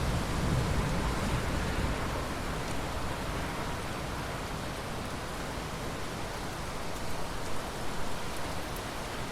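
Steady heavy rain falling, a dense even hiss, with a low rumble of thunder that fades away over the first two seconds.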